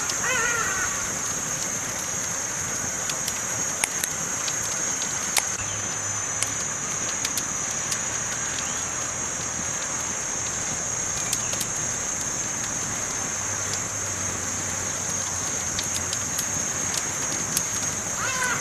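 Campfire burning with a steady crackle and scattered sharp pops, over a steady high-pitched hiss. A bird calls briefly at the start and again at the very end.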